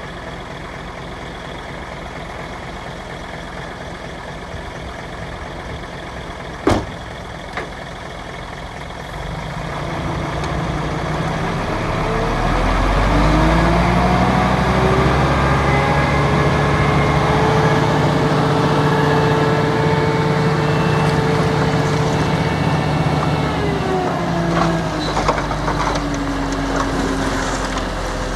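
Heavy construction machine's engine idling, then revving up about nine seconds in and held at high revs for about ten seconds before dropping back down. A single sharp click comes about a third of the way in, and clattering near the end.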